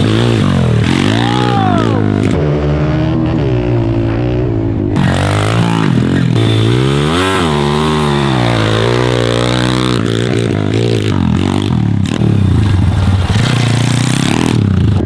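MRF 140 TTR pit bike's single-cylinder four-stroke engine being ridden, revving up and dropping back several times as the throttle is opened and closed.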